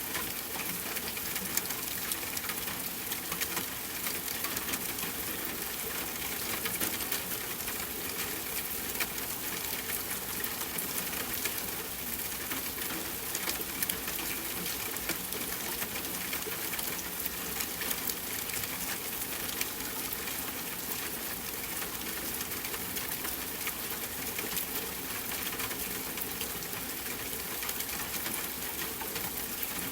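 Steady rushing noise of flowing water, with a fine crackle running through it.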